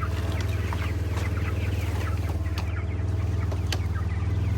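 Young Grey Ranger meat chicks peeping over and over, short high chirps, over the steady low hum of the engine of the vehicle towing their chicken tractor. A couple of sharp knocks come about two and a half and three and a half seconds in.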